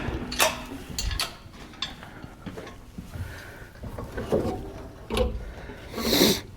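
Scattered clicks, knocks and rubbing of hand work on a truck engine bay, with a louder scrape about six seconds in.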